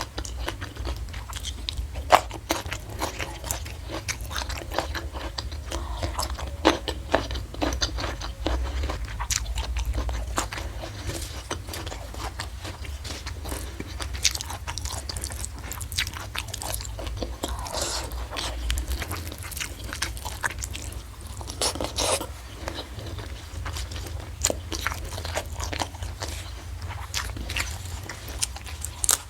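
Close-miked chewing and crunching of food, a dense run of short crunches and clicks, over a steady low hum.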